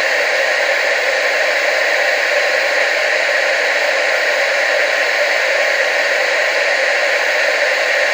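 TV static: a steady, unchanging hiss, strongest in the middle and upper range with no low rumble.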